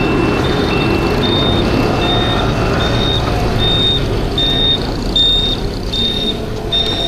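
High electronic beeps repeating about every 0.8 seconds, with a lower beep alternating with them for the first couple of seconds, over the steady rumble of city traffic and a small scooter engine on the move.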